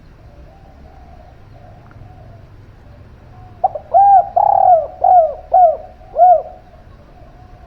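Caged dove cooing: a loud phrase of about five short arched coo notes about halfway through, after a few seconds of faint cooing.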